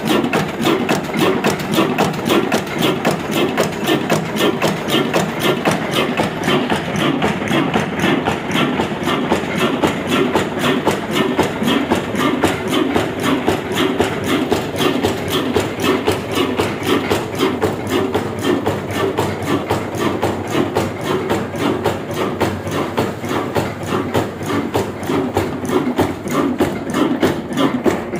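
Vintage Ruston Hornsby diesel engine running steadily, its exhaust and firing giving a fast, even knocking beat.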